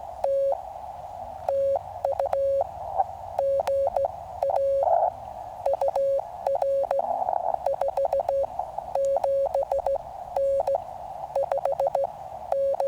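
Morse code (CW) from a QCX mini QRP transceiver: a single steady beep keyed on and off in dots and dashes, over the hiss of the receiver's narrow CW filter.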